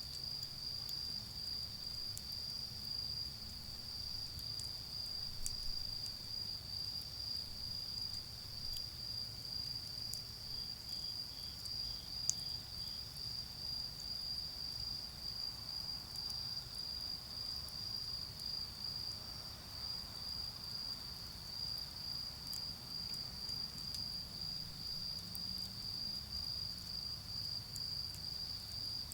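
Steady chorus of autumn crickets trilling on one high note, with scattered faint crackles from a charcoal fire and a low rumble of distant road traffic. One sharper pop about twelve seconds in.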